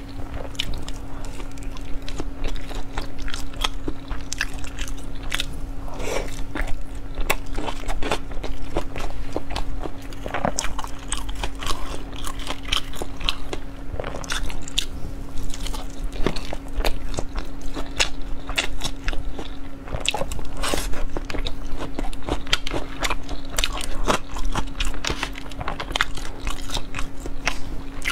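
Close-miked chewing and biting of nori-wrapped sushi rolls: wet mouth sounds with many small irregular clicks throughout.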